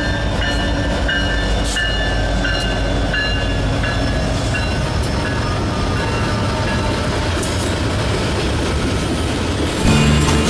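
Norfolk Southern manifest freight train rolling past, a steady loud rumble of wheels on rail, with short high-pitched tones coming and going in the first few seconds. Music starts near the end.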